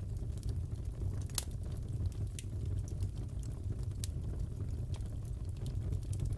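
Wood fire crackling in a fireplace: scattered sharp pops and snaps over a steady low rumble, the sharpest pop about a second and a half in.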